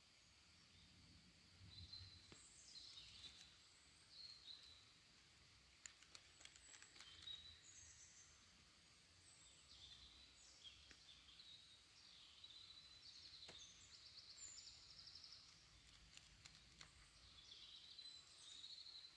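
Faint woodland birdsong: small birds giving short high chirps and trills, one after another throughout, with a few soft clicks.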